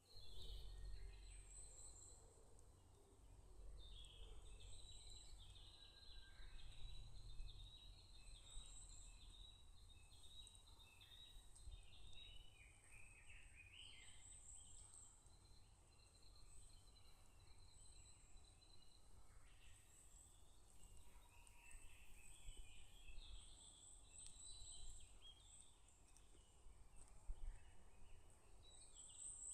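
Faint natural outdoor ambience: birds chirping and calling in frequent chattering phrases, with short high, thin chirps repeating every second or two over a low steady rumble.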